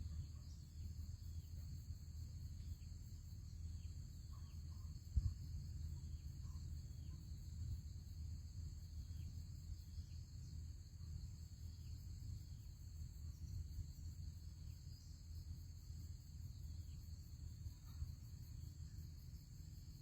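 Steady, high-pitched chirring of crickets or similar insects, under a low rumble like wind on the microphone, with a single sharp knock about five seconds in.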